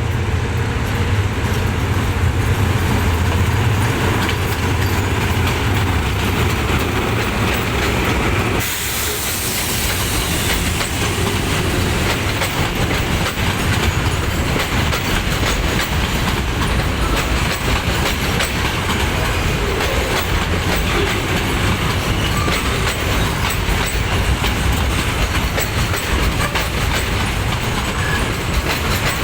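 Freight train passing close by. For the first eight or so seconds the diesel locomotive's engine rumbles deep and loud. Then the rumble drops away and the freight wagons roll past, their wheels clacking steadily over the rail joints.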